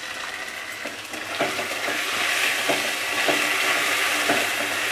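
Potato pieces, turmeric and ginger paste frying in hot oil in a metal kadai, stirred and scraped with a metal spatula. The sizzle swells about a second and a half in, and several spatula scrapes and knocks come through it.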